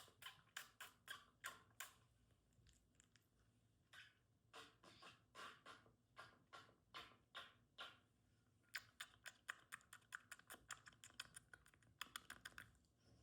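Faint runs of quick, irregular clicks or taps, several each second, in short groups broken by pauses of about a second.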